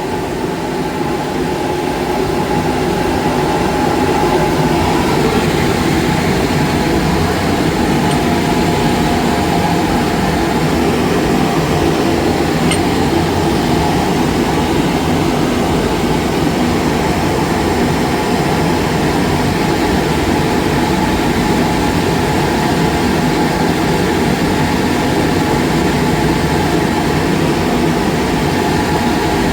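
Steady, loud rushing rumble of a running boiler installation, getting slightly louder about three seconds in and then holding even.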